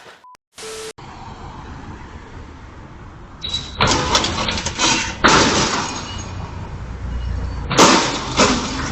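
Vehicle crash: loud sudden impacts with glass breaking, over a steady low vehicle rumble, in bursts about four, five and eight seconds in.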